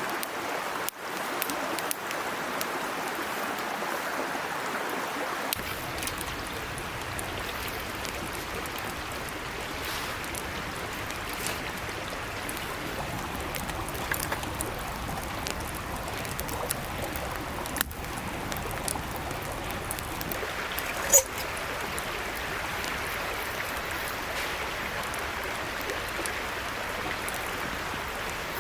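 Small mountain stream babbling steadily, with scattered faint clicks and one sharper knock about three-quarters of the way through.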